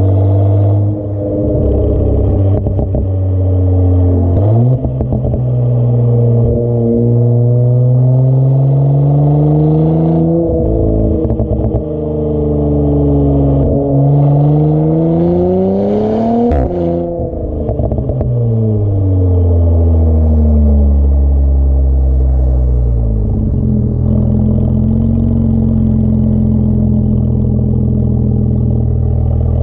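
2018 Audi S5 B9's 3.0-litre turbocharged V6 through an AWE Track aftermarket exhaust, its pitch climbing slowly under throttle with a short dip partway, peaking, then falling back to a steady drone for the last few seconds.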